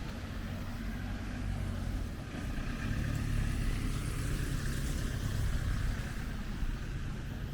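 A passing motor vehicle's engine running, its low hum growing louder through the middle and easing off near the end, over street noise.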